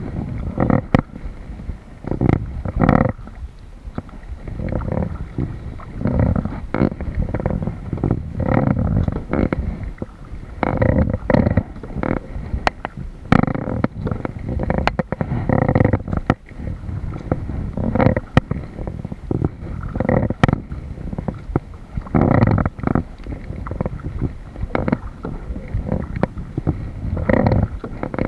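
Kayak paddling: water splashing and sloshing against the paddle blades and the hull, in surges about every two seconds with the strokes, with an occasional knock.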